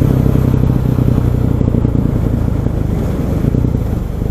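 KTM 500 EXC's single-cylinder four-stroke engine running on the road at a steady speed, its note easing slightly near the end, with wind noise on the microphone.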